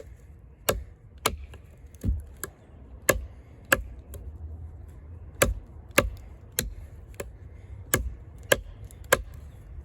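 Eafengrow EF-143 fixed-blade camp knife (thick 6.7-inch AUS-10 steel blade) chopping into a log: a series of sharp chops about every half second, with a short pause about four seconds in.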